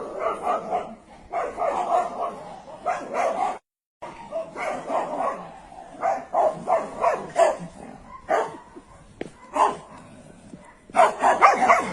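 A dog barking repeatedly in quick runs of short barks. The sound drops out briefly a little under four seconds in.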